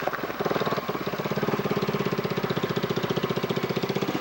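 Small motorcycle engine idling, a steady rapid pulse.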